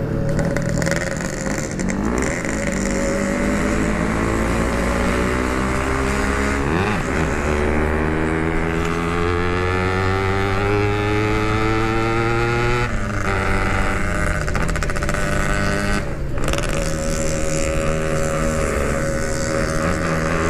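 Yamaha RX-King two-stroke motorcycle engine accelerating through the gears, its revs climbing in long pulls and dropping at two shifts, about a third and two-thirds of the way through, then holding fairly steady. The rider says the clutch is still slipping and not yet right.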